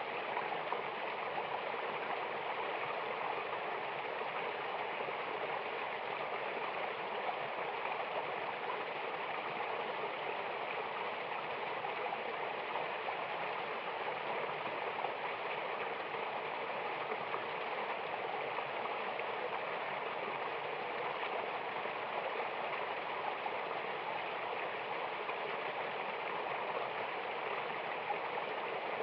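Mountain river and waterfall rushing steadily, a continuous hiss of white water with no change in level.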